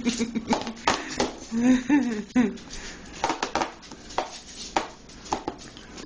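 Brief wordless vocal sounds about two seconds in, among scattered light taps and clicks.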